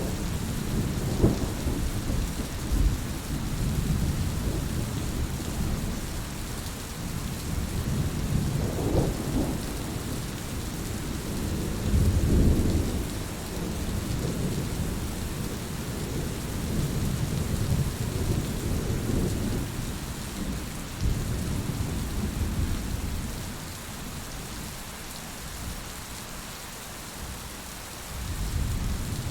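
Steady rain hiss under low rumbling thunder that swells and fades in waves. The thunder is heaviest about twelve seconds in, eases off for a few seconds near the end, then starts building again.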